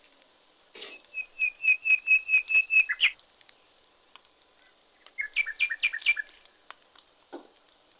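A bird calling: a quick run of about ten identical chirps lasting nearly two seconds, then a second, shorter run of two-note chirps about five seconds in.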